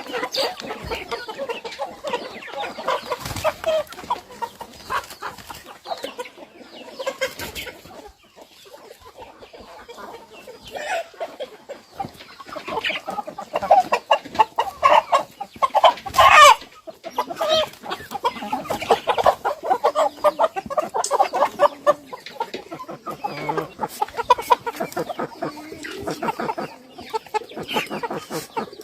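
A flock of chickens clucking continuously, many short overlapping calls, with one louder call about halfway through.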